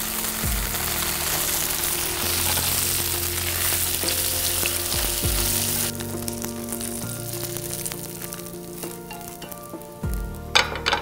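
Tofu cubes pan-frying in oil, a steady sizzle that dies away about six seconds in. Soft background music plays throughout, and a few light clicks come near the end.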